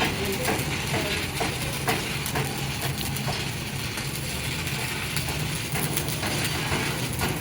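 Workshop machinery noise: a steady low hum with irregular sharp clicks and knocks of metal work over it.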